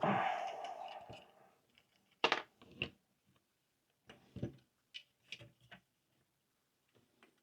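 A PlayStation 5 mainboard being turned over and handled on the workbench: a brief scraping, rustling sound that fades over about a second, then a few light knocks and clicks.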